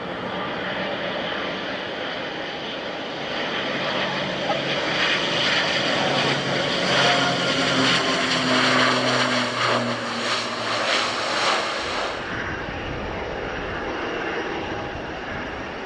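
A CASA C-295's twin turboprop engines and propellers run with a steady propeller drone that grows louder over several seconds. The drone cuts off abruptly about twelve seconds in, giving way to a quieter, steady airliner engine noise.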